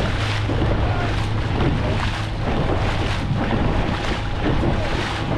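Dragon boat paddles catching and pulling through the water in rhythm, a wash of splashes about twice a second, with wind buffeting the microphone.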